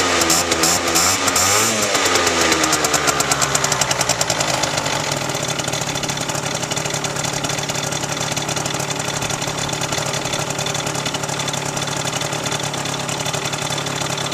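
Peugeot Speedfight 3 scooter engine breathing through a LeoVince Touring aftermarket exhaust. It is revved for the first few seconds, and the revs fall away over about two seconds. It then settles into a steady idle.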